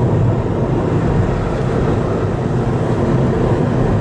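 A car being driven: a steady low engine hum with road noise that does not change.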